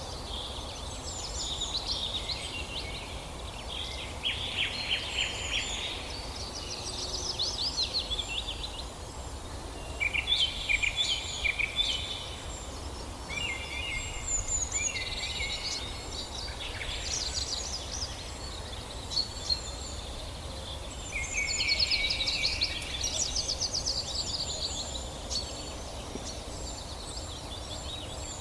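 Several songbirds singing together in a forest, overlapping chirps and quick trills in phrases of a second or two, over a steady low background rumble.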